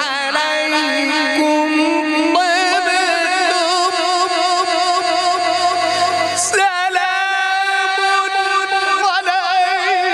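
A man's voice in melodic Quran recitation, holding long ornamented notes with a wavering pitch. New phrases begin about two seconds in and again past the middle.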